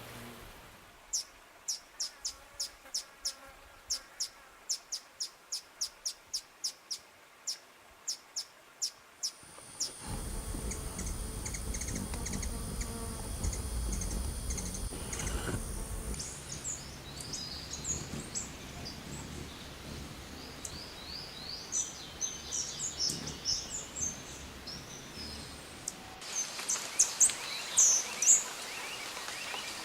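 Bird calls across several cuts. First comes a sharp, high call repeated about twice a second for roughly nine seconds. Then a low rumble like wind on the microphone with a steady high insect-like tone, and finally scattered high chirps and twitters.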